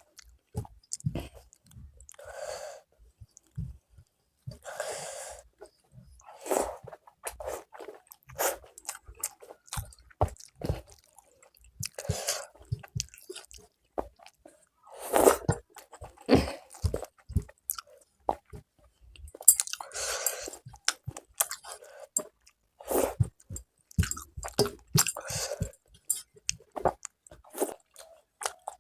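Close-miked chewing of a meal of rice and fish curry: wet mouth clicks and smacks at irregular intervals, with short louder spells of chewing.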